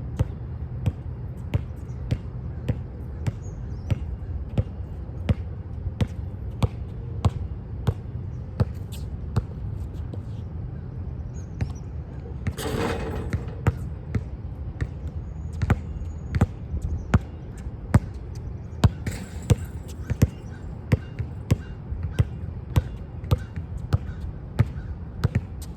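A basketball being bounced over and over on a hard court, a sharp slap about every half second or so. About halfway through there is a short rushing noise.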